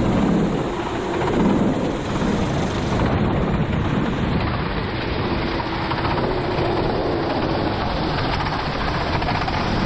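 Four-stroke racing kart engine running at speed on a wet track, mixed with a steady rush of rain spray and wind noise.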